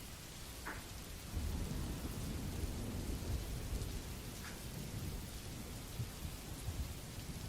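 Steady rain hissing, with a low rumble of thunder rolling in about a second and a half in and continuing.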